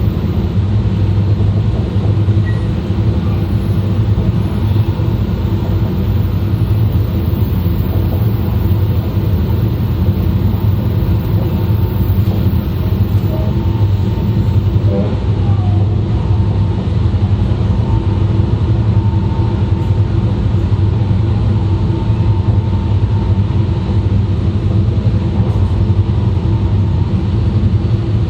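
Running noise of an E2 series Shinkansen heard from the vestibule of a car: a steady rumble of wheels on track. A faint steady tone joins about halfway through.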